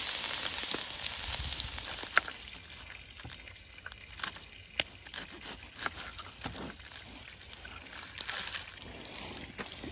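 Ground beef sizzling in a cast iron Dutch oven over a campfire, the hiss fading after the first couple of seconds. Scattered sharp clicks and taps follow at uneven intervals.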